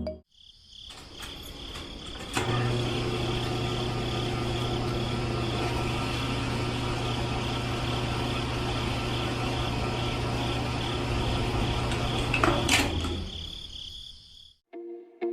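Small electric motor running steadily, with a low hum and a high whine. It switches on about two seconds in and stops with a click near the end.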